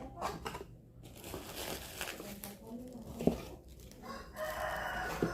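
Packaging crinkling and rustling as it is handled, with a sharp click a little past the middle.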